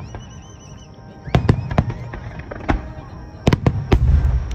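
Aerial fireworks shells bursting in a rapid run of sharp bangs over a low rolling rumble; the bangs come thick from a little over a second in.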